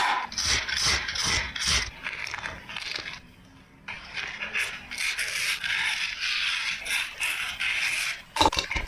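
Repeated scraping strokes, broken by a short pause about three seconds in, then steadier scraping.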